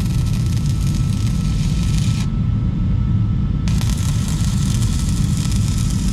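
Forge fire roaring: a steady low rumble with a high hiss that drops out for about a second and a half midway, then comes back.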